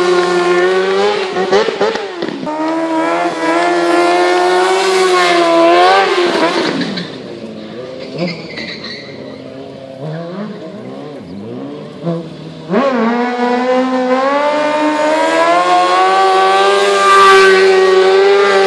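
Sport motorcycle engine held at high revs during wheelie stunts, its pitch dipping and climbing again as the throttle is worked. For several seconds in the middle it falls back to a quieter, lower running, then is suddenly revved hard again and held high.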